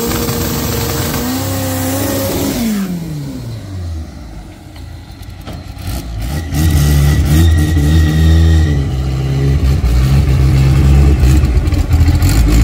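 A drag-racing Chevette's four-cylinder Volkswagen AP engine held at high revs, the revs falling away two to three seconds in. After a quieter moment, a loud, low, uneven engine rumble comes in about halfway and runs on, with small rises in revs.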